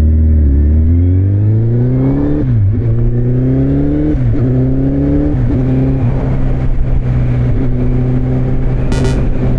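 Kawasaki Z1000 inline-four with an Akrapovic exhaust accelerating through the gears. The engine note climbs and dips briefly three times in the first half as it shifts up, then settles into a steady cruise.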